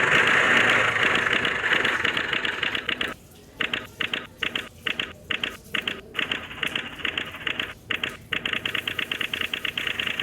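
Diesel tractor engine running with a rapid, dense clatter. About three seconds in the sound breaks up into choppy bursts with short gaps, then turns steady again for the last couple of seconds.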